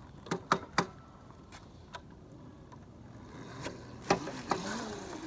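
A few sharp knocks and clatter, three close together about half a second in, then rising rustling noise with more knocks near the end.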